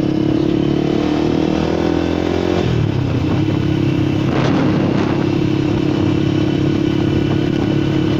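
Zipco KPR 200 motorcycle's 200 cc engine running as the bike is ridden, its note changing abruptly about two and a half seconds in, then steady again.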